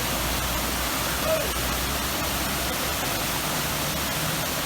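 Steady rushing of a roadside waterfall in heavy flow.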